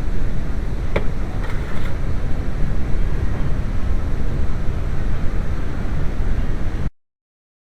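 Turbocharged 1.8-litre four-cylinder engine idling steadily, with a sharp click about a second in; the sound cuts off suddenly near the end.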